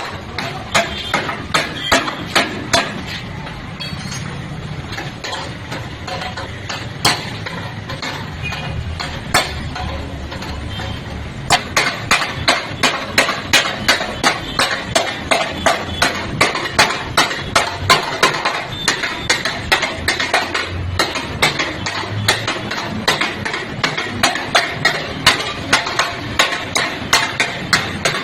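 Hammer striking car body sheet metal during panel beating (denting): scattered blows at first, then a steady run of rapid strikes at about two to three a second from a little under halfway in.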